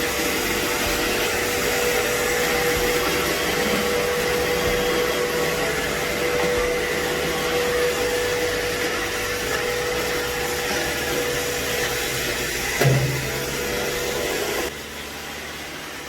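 iRobot Roomba robot vacuum running, a steady whirring hum with a constant tone. Near the end there is a brief knock, and then the sound drops sharply in level.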